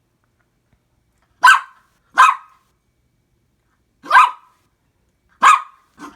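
A dog barking: four sharp, loud barks with pauses between them, and a softer fifth bark near the end.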